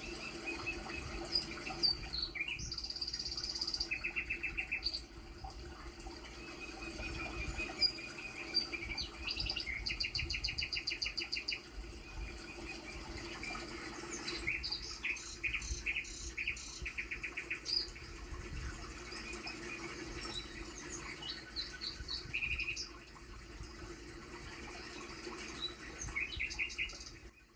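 Small birds chirping and trilling in short runs of rapid repeated notes, over a steady low hum and rumble.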